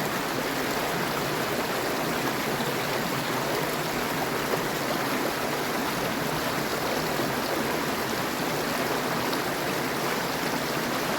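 Mountain creek water rushing and splashing over rocks, a steady even rush.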